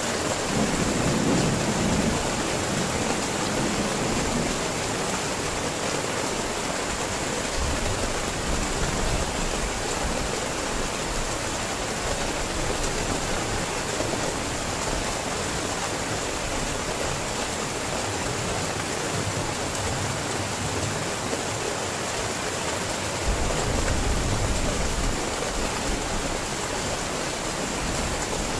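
Heavy rain falling steadily, a dense even hiss, with a low rumble about a second in and again near the end.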